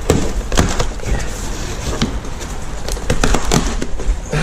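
Irregular cracks and knocks of hardened spray-foam packing and cardboard being pried and broken away from a motorcycle engine in its shipping box.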